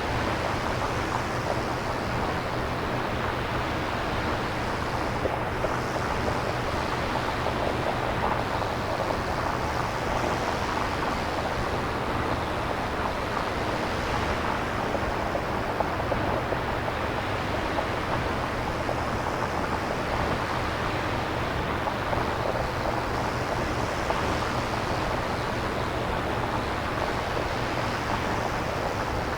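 Synthesized nature ambience: a steady, surf-like wash of noise with faint, slow swells every few seconds, generated on a synthesizer rather than recorded.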